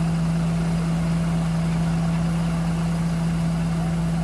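Crane truck's engine idling steadily, a constant low hum over a deep rumble.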